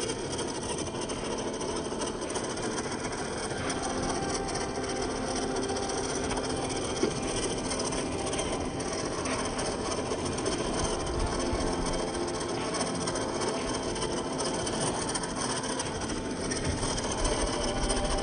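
Reely Free Men RC rock crawler driving over rough ground: its electric motor and geared drivetrain whine steadily, with the tyres rasping and scrunching on the terrain and one short click about seven seconds in.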